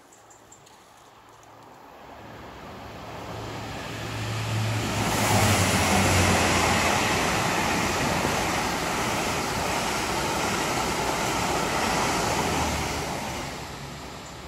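Passenger train passing at speed on the main line: wheel and rushing air noise with a low hum, building from a couple of seconds in, loudest for most of the pass and fading away near the end.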